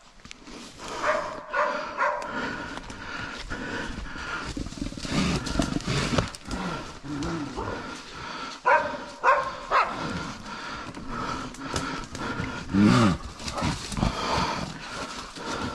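A bear growling and calling in short repeated vocalizations, the loudest about thirteen seconds in with a pitch that rises and falls.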